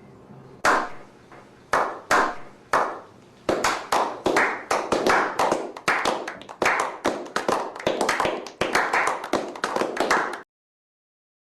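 Hand clapping in a slow clap: single claps about a second apart, then from about three seconds in faster and denser claps, about three a second, which stop abruptly near the end.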